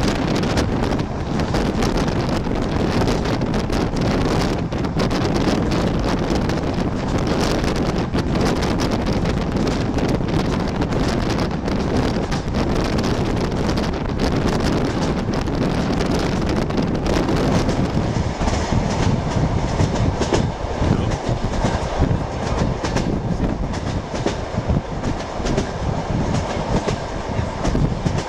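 Passenger train running on the rails, heard from aboard: a steady rumble and rattle of the carriage with the clacking of wheels over the track. About two-thirds of the way through the high hiss drops away and the low clatter becomes more uneven.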